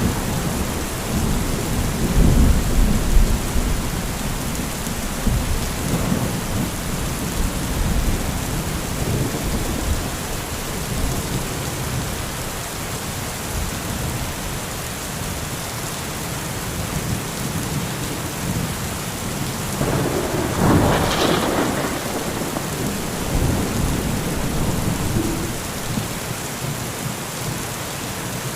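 Heavy rain falling steadily, with low rolling thunder that rumbles loudly in the first few seconds and then dies away. A sharper, brighter peal of thunder comes about twenty seconds in.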